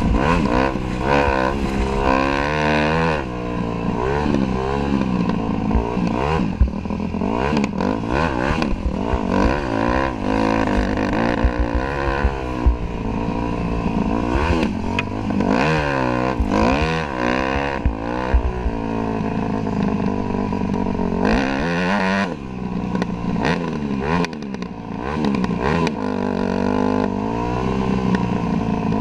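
Dirt bike engine being ridden hard, its pitch rising and falling over and over as the throttle opens and closes, with scattered knocks and rattles from the bike.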